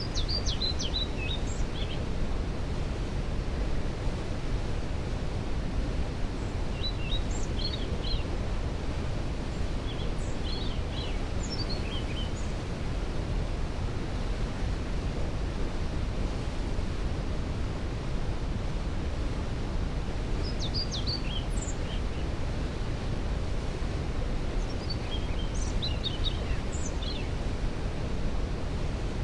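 Steady rushing roar of a waterfall, with a songbird singing short, high phrases over it five times.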